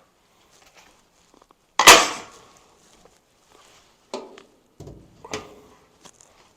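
Workshop handling knocks: one loud clank with a short ringing tail about two seconds in, then three lighter knocks a little later.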